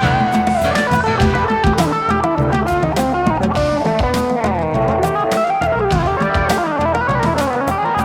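Instrumental AOR synth-pop: an electric guitar plays a melodic lead line, with bends and slides, over bass, synths and a steady drum beat.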